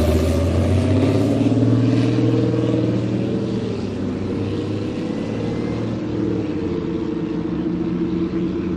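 Rally-raid truck's diesel engine running under throttle, louder for the first few seconds and then easing off a little.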